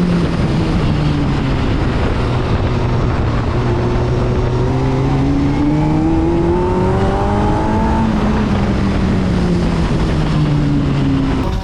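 BriSCA F2 stock car engine running hard on a short oval, its pitch climbing for a few seconds through the middle and then dropping away as the driver lifts off.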